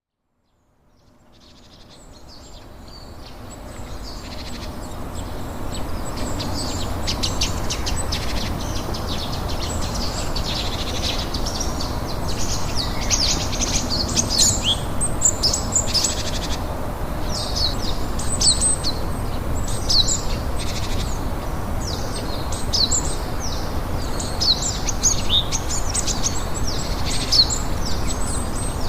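Birds chirping and twittering in many quick, high, short notes, over a steady low background rumble. The sound fades in over the first few seconds.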